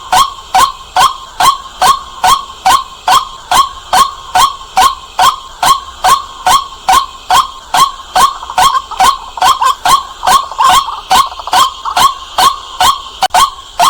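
White-breasted waterhen calling loudly: a single short note repeated steadily, about three times a second.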